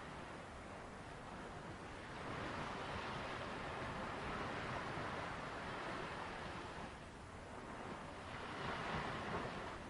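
Sea waves washing onto a shore in slow surges: a steady rush of surf that swells about two seconds in, eases, then swells again near the end.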